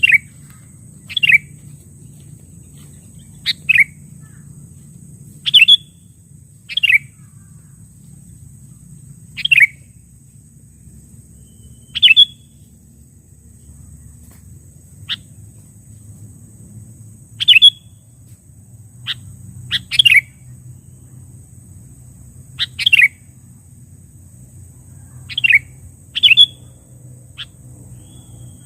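Sooty-headed bulbul (kutilang) calling in the 'menggaruda' style: short, loud calls that each drop in pitch, repeated about every two seconds.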